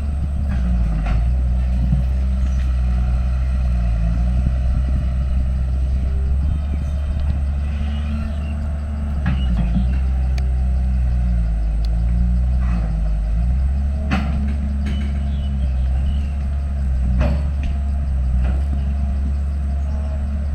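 Diesel engine of heavy earthmoving machinery, an excavator or bulldozer, running under varying load, its note rising and falling a little, with several sharp knocks.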